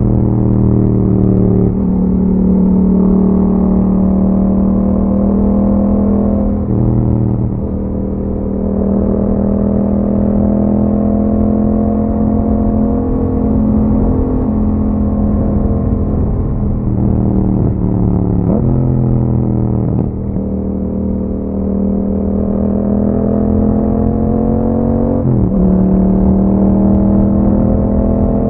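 2021 Yamaha MT-07's parallel-twin engine running through an Akrapovic exhaust while riding. It holds steady revs for long stretches, and the engine pitch drops and climbs again several times as the revs change.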